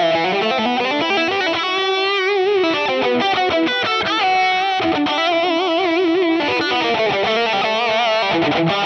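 Electric guitar through a Line 6 Pod Go preset, playing a distorted lead line: an Orange-style Mandarin 80 amp model pushed by a Scream 808 (Tube Screamer-style) overdrive, with tape delay and hall reverb, giving a classic British rock tone. The notes run on without a break, many held with wide vibrato.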